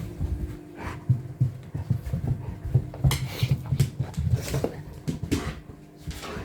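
Golden retriever making short huffing, whining noises amid soft low thuds of movement.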